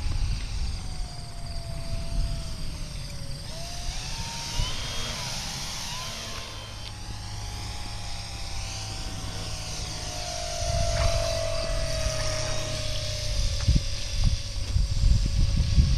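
Electric motor and propeller of an FMS 1400mm P-40 Warhawk RC model plane in flight: a steady whine that dips, climbs about four to six seconds in, then sinks slowly as the plane passes and the throttle changes. A low rumble grows over the last few seconds.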